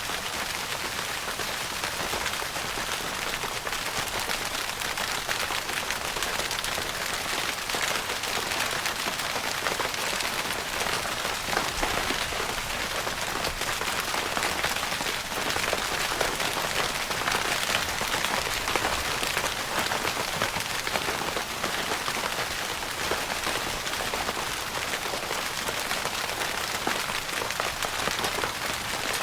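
Steady rain pattering on a tent's fabric roof, a dense, even hiss of many small drop impacts.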